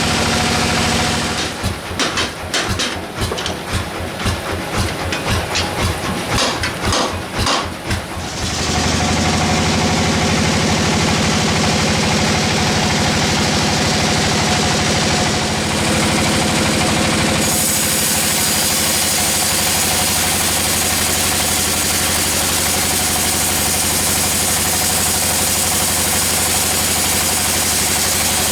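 Sawmill machinery running steadily with an engine-like hum. For the first several seconds the sound pulses unevenly, then it settles, and a little past halfway a steady high hiss joins in.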